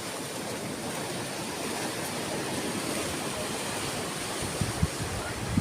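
Sea waves washing ashore: a steady surf hiss, with a few low thumps near the end.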